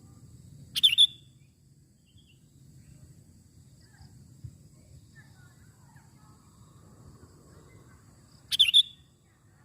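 Sooty-headed bulbul (kutilang) giving two short, loud bursts of calls about eight seconds apart, with a faint low background noise between them.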